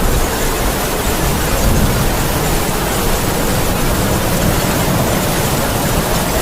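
Heavy rain falling in strong wind, a steady hiss over a low rumble.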